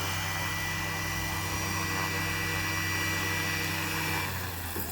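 Scale EC135 RC helicopter running with a steady rotor hum and a high whine. About four seconds in, the pitch drops and the tones cut out as it powers down.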